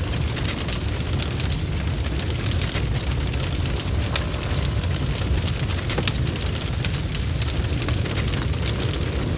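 Bonfire crackling: many small, irregular pops and snaps over a steady low rumble.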